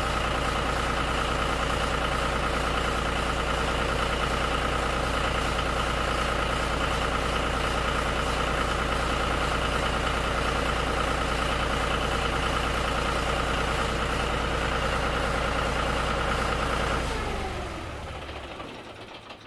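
John Deere 5055D tractor's three-cylinder diesel engine idling steadily, then shut off about 17 seconds in, winding down to a stop.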